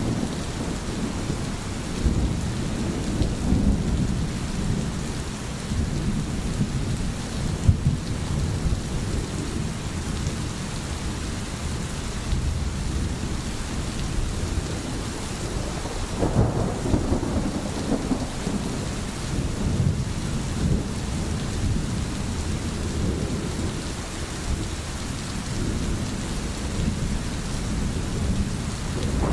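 Steady rain falling, with low rolling thunder rumbling underneath that swells about halfway through.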